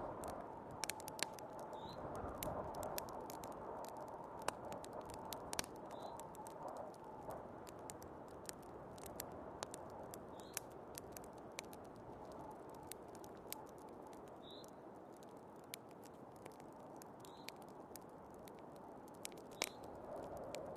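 Wood fire crackling with irregular sharp pops and snaps, over a steady rush of snowstorm wind. A faint short high squeak recurs every few seconds.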